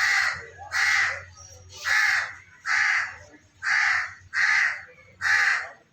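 A bird's harsh calls, repeated steadily about seven times, each about half a second long.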